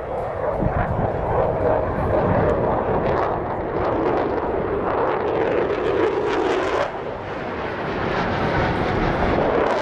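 An airplane at an airshow flying past with a loud, sustained engine roar that eases briefly about seven seconds in.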